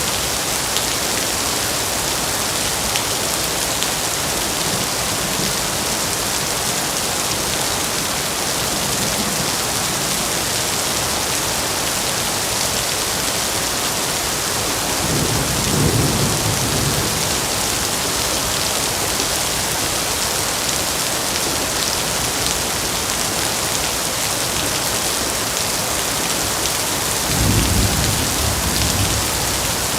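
Heavy rain falling steadily as a dense, even hiss. Two brief low rumbles swell up, one about halfway through and one near the end.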